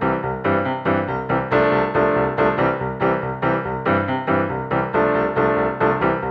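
Background music led by piano-like keyboard notes, played with a regular bouncy beat of struck notes.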